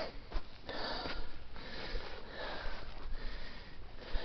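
A hiker breathing hard and fast, a run of noisy breaths in and out, winded from climbing a steep slope.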